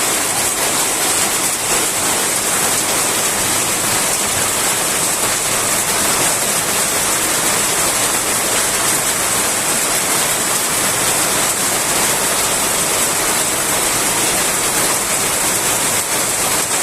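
Heavy rain pouring down steadily, a dense even hiss with no thunder.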